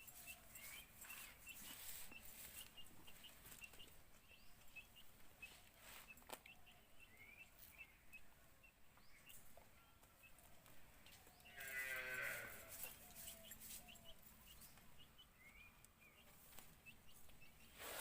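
Faint outdoor ambience: a farm animal calls once about twelve seconds in, a wavering cry lasting about a second. Underneath are faint, regularly repeated high chirps and a few scattered clicks.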